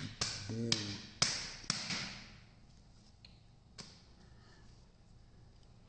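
Several sharp taps and clicks in the first two seconds, then quiet with one more tap about four seconds in.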